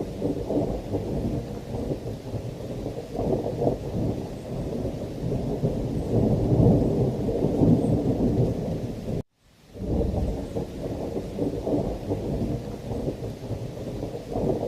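Thunder rumbling on and on over heavy rain, swelling louder a little past the middle. About nine seconds in, the sound cuts out for a split second and starts again, like a loop point in the recording.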